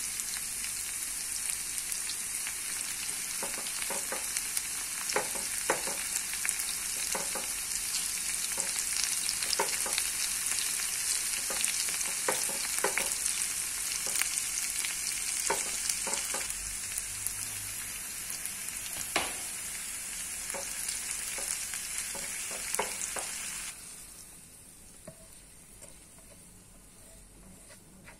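Chopped onion and garlic sizzling in hot oil in a frying pan, stirred with a spatula that taps and scrapes the pan many times. The sizzle cuts off suddenly near the end, leaving a much quieter sound.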